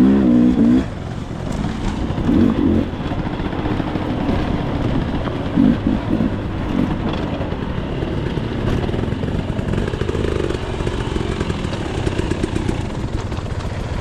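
Dirt bike engine running as the bike is ridden, its revs rising and falling several times.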